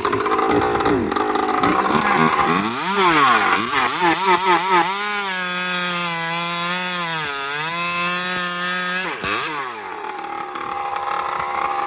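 Husqvarna 543XP 43 cc two-stroke chainsaw fitted with an expansion pipe, revving: after a rough, lower running start the throttle is blipped up and down several times, then held high and steady for about four seconds, dipping once, before dropping back to a rougher, lower running sound near the end.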